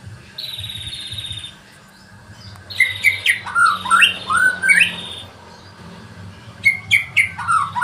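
A murai songbird calling. It gives one harsh buzzing note, then two bursts of quick whistled phrases that sweep up and down in pitch, mixed with chattering notes.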